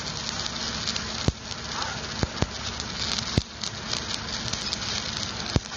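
Stick (shielded metal arc) welding: the arc crackles and sizzles steadily, with about five sharp pops spread through it and a low steady hum underneath.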